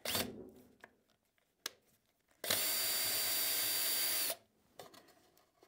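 A power drill runs steadily for about two seconds with a constant high whine, then stops abruptly. A few handling clicks come before it.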